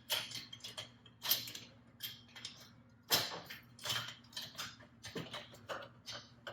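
Scattered metallic clinks and taps of hand tools and bolts against turbo and exhaust parts, about a dozen, irregularly spaced, while the turbocharger is being fitted and aligned.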